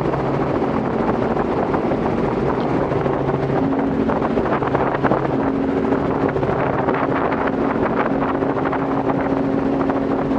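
Robinson R44 helicopter in flight heard from inside the cabin: the steady drone of its six-cylinder piston engine and rotor, with wind rushing over the microphone. The engine note shifts slightly in pitch a few seconds in.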